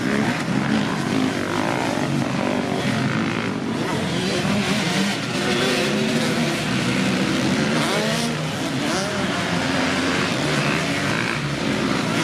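Motocross bike engines running and revving, their pitch rising and falling repeatedly.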